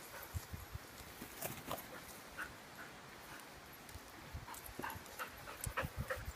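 Australian Labradoodle puppies playing: brief faint whimpers among scattered light knocks and scuffles.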